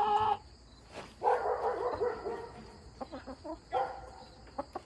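Chickens calling at close range: the end of a drawn-out call, a harsh squawk about a second in, then short clucks.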